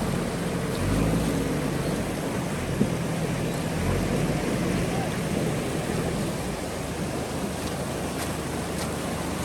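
JCB backhoe loader's diesel engine running under work, over a steady rush of fast-flowing river water, with a single sharp knock a little under three seconds in.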